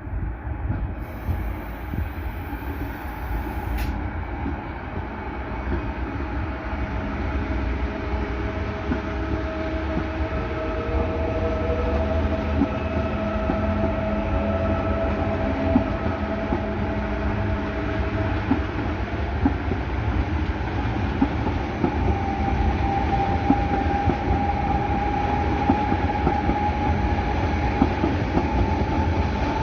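Train moving along the station tracks, with a rumble and wheel clatter that grow steadily louder and a thin whine that rises slightly in pitch in the second half.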